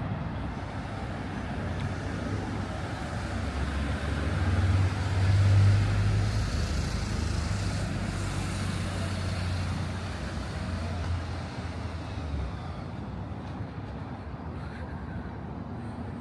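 A motor vehicle passing close by on the street. Its low engine rumble swells to a peak about five seconds in, then fades away by about twelve seconds, over steady street noise.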